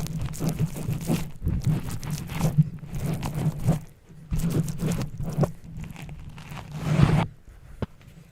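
Rapid, irregular crunching and crackling over a steady low hum, stopping about seven seconds in.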